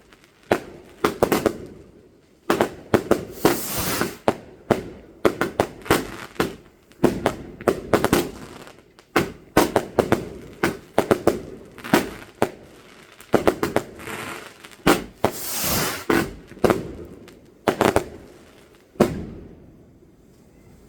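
Fireworks going off: a rapid, uneven run of sharp bangs, with two longer hissing, crackling bursts, one a few seconds in and one about three quarters of the way through.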